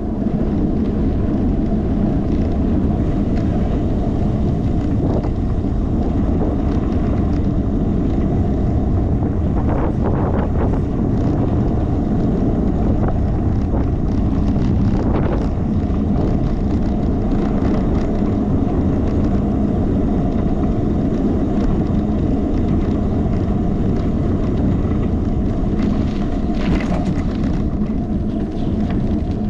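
Steady wind and road noise on a handlebar-mounted action camera's microphone while riding a bicycle, with a few light rattles.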